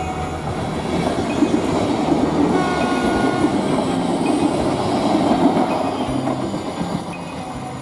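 A passenger train passing close by, its wheels clattering and rumbling along the track. The noise builds about a second in and eases off near the end.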